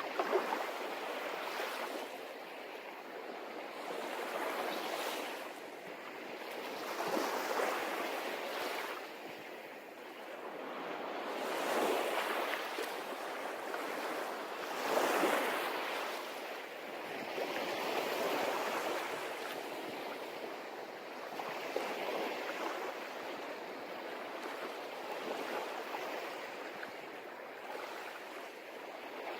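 Sea waves breaking and washing up on a beach, the surf swelling and easing every few seconds, louder surges about twelve and fifteen seconds in.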